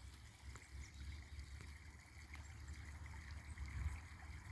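Faint creek water trickling, with a low rumble underneath.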